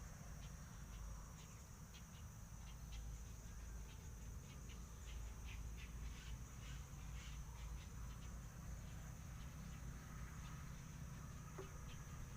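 Insects droning steadily at a high pitch, with scattered short ticks and chirps and a low rumble underneath.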